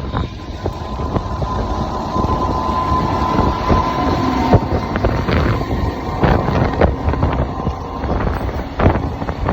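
JR Freight train behind an EH500 electric locomotive passing close by: a steady rumble of wheels on rail, with irregular sharp clicks from the wheels going over rail joints.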